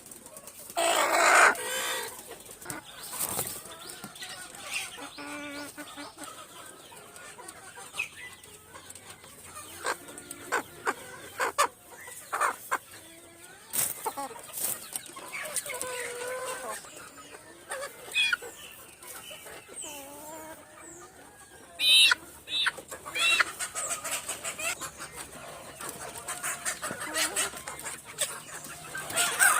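Chickens clucking, with a run of short calls and several louder squawks scattered through.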